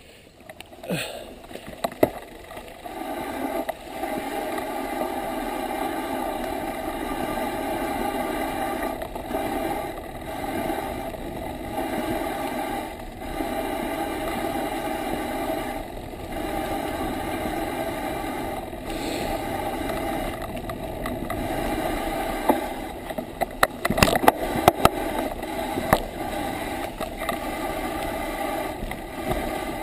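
Bicycle rolling downhill: a steady tyre hum with short dips, and a cluster of sharp knocks and rattles from bumps a little over two-thirds of the way through.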